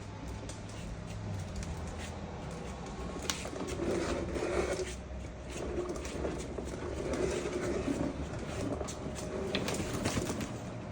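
A parrot making soft, low cooing calls, a few short bouts, over a steady low motor hum from the Jeep it is riding in.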